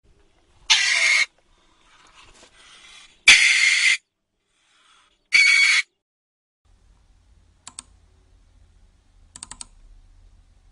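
A meerkat gives three short, harsh, hissy calls, about two seconds apart. Near the end a few faint ticks follow.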